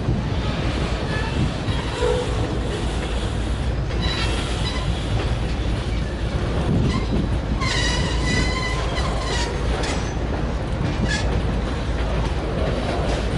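Union Pacific freight train rolling past with a steady low rumble of wheels on rail. High-pitched wheel squeals come and go, the strongest a little past halfway through.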